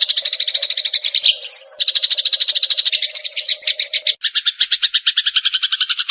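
Sparrows chattering in a rapid, unbroken run of harsh chirps, about ten a second, the agitated calling of sparrows fighting. The chirps shift in tone about three and four seconds in, and a faint low hum underneath stops about four seconds in.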